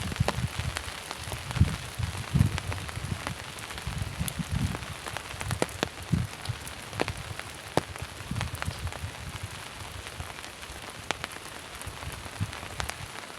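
Heavy rain falling steadily, with many sharp taps of single drops landing close by and irregular low thuds, more of them in the first half.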